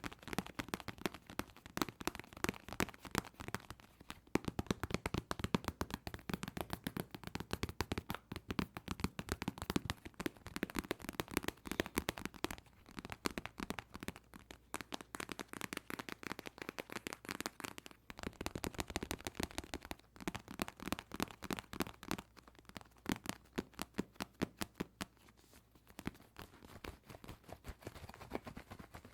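Fingers and fingernails tapping rapidly on a cardboard tissue box: a quick, uneven patter of dry taps in flurries, with a few short pauses.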